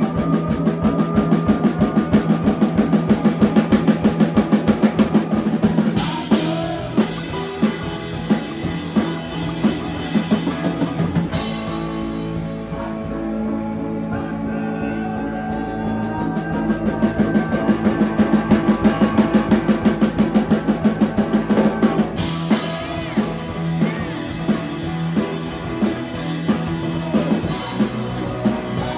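Live rock band playing, drum kit and guitar, with stretches of fast, even drum beats around a quieter passage in the middle and a few sharp accents.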